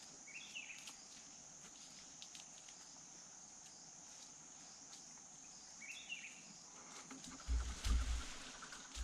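Steady high insect chorus, with two short chirping calls, one about half a second in and one about six seconds in. Low thumps and rustling come in near the end.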